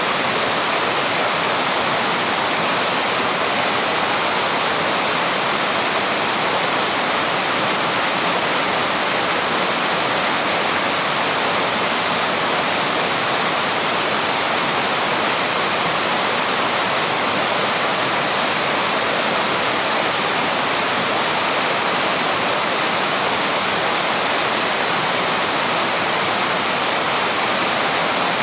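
Waterfall: falling water rushing in a steady, unbroken wash of noise that does not change.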